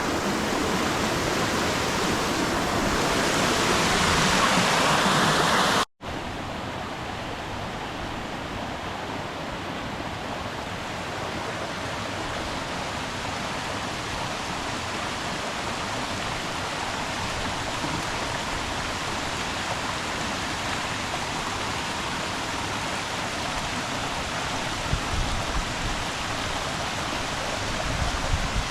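Steady rushing of a waterfall. About six seconds in it breaks off for an instant and comes back quieter.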